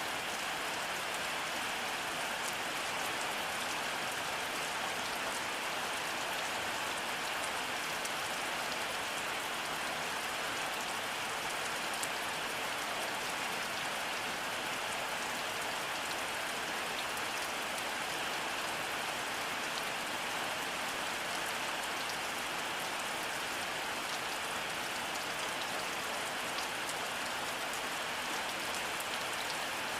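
Steady rainfall: an even hiss of rain with scattered sharp drop ticks, unchanging throughout.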